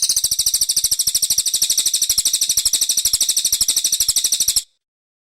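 Brown cililin singing a rapid, high-pitched trill of evenly repeated notes, about ten a second, that cuts off abruptly near the end.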